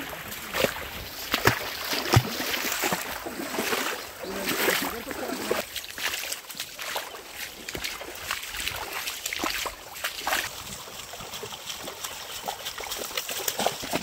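Water in a mountain stream splashing and trickling, with irregular sharp splashes.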